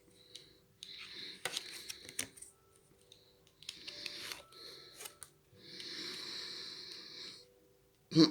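Lenormand cards being handled: short spells of soft rustling and sliding, with sharp little clicks, separated by pauses, the longest spell near the end.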